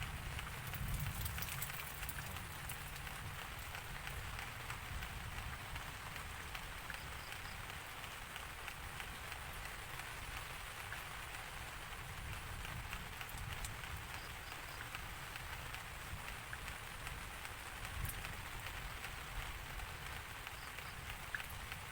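Steady rain falling, a dense patter of drops on a surface, with a low rumble underneath that swells briefly about a second in and again near the end.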